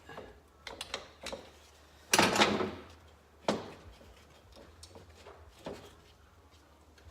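Hand work on a motorcycle engine: scattered clicks and knocks of tools and metal parts being handled, with one louder scrape or rustle about two seconds in.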